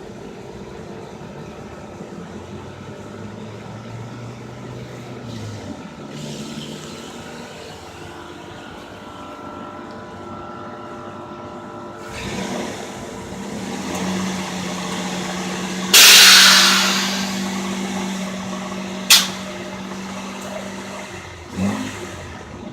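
Air suspension on a 1960 Dodge truck, over a steady mechanical hum. Past the middle a loud hiss of released air starts suddenly and fades over a second or two. A short sharp burst of air follows about three seconds later, and a smaller one comes near the end.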